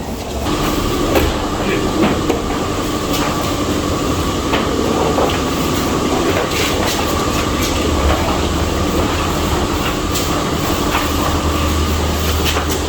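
Self-service car wash high-pressure spray equipment running: a steady hiss of spray with a pump whine that comes in about half a second in and holds, with scattered clicks and knocks.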